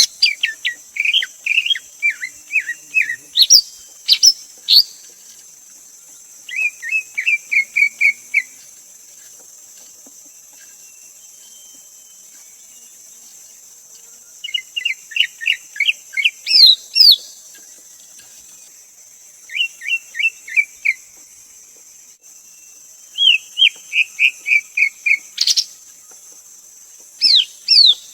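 Greater green leafbird singing: about six bursts of rapid, chirpy whistled notes, each burst one to three seconds long, separated by pauses of a few seconds, with a few sharper high notes mixed in. A steady high hiss runs underneath.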